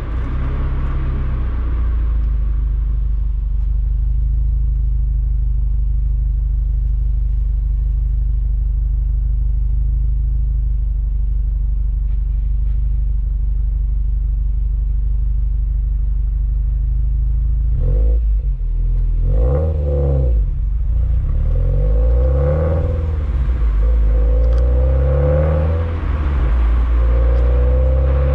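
Exhaust of a Subaru WRX STI's turbocharged flat-four through an HKS Super Turbo Muffler while driving. It runs at a steady cruising drone, then, about two-thirds of the way in, the revs climb and drop several times in a row.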